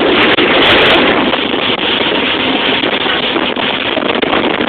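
Steady loud rushing of wind buffeting the microphone, mixed with water noise, aboard a moving boat.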